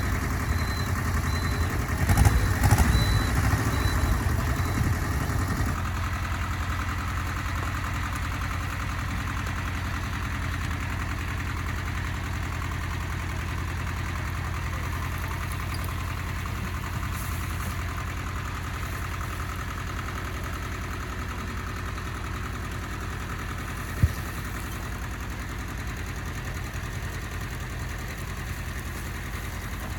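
An engine running steadily at idle, with a louder, rougher patch a couple of seconds in and a single sharp knock near the end.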